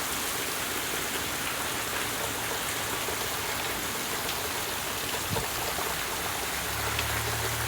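Heavy rain pouring down, a steady hiss with scattered drop ticks. A low steady hum comes in near the end.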